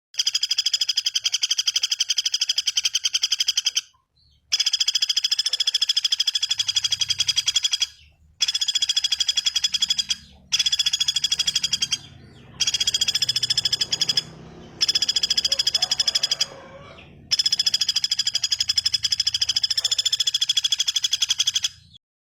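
A bird's fast, buzzy rattling trill, repeated in bouts of about four seconds that cut off abruptly, as in a looped bird-call recording.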